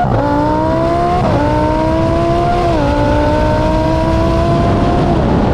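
Turbocharged Mustang V8 accelerating hard, its engine note climbing steadily and dropping at two upshifts, about a second and nearly three seconds in. It fades away near the end.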